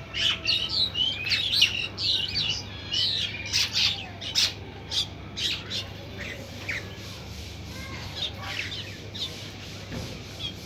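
Birds chirping in many short, quick overlapping calls, busiest in the first half and thinning out after about five seconds.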